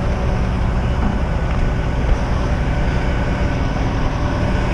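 Heavy truck's diesel engine running steadily with a low, even rumble.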